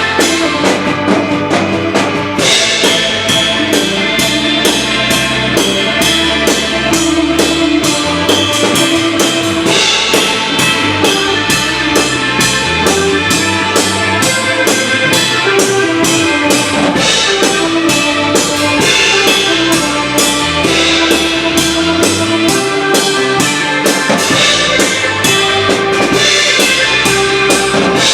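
Live rock band playing an instrumental stretch of a song, with a full drum kit, bass drum and snare, keeping a steady beat under the melody.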